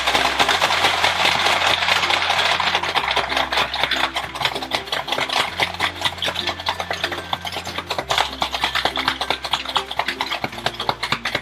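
A toy race game running: a dense mechanical rattle of plastic parts with balls and gumballs clattering, which eases off near the end. Background music with a repeating bass line plays throughout.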